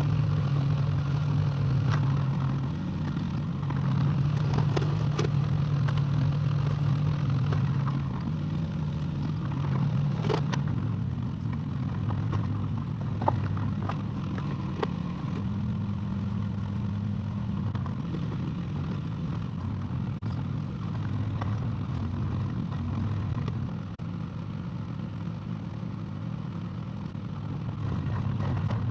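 Excavator engine running steadily, its note shifting up and down a few times as the machine works, with scattered clanks and scrapes from the bucket and tracks.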